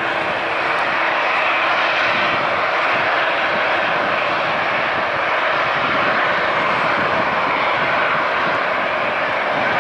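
Airbus A330neo jet airliner's Rolls-Royce Trent 7000 turbofan engines running: a loud, steady rushing noise with no clear whine.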